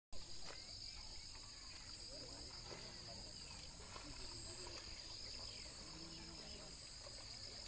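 Steady, high-pitched chorus of insects such as crickets or cicadas, with faint distant voices underneath.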